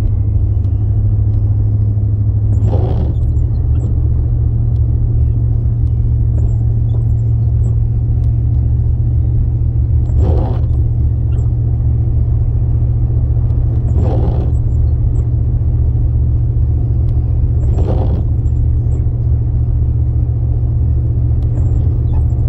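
Steady low road and engine rumble heard from inside a moving car's cabin, with four brief swishing sounds a few seconds apart.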